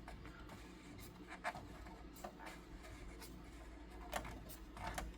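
Faint, irregular clicks and rubbing from the hand-turned plastic winch of a 1975 Hasbro GI Joe Adventure Team toy helicopter as it reels its line back in.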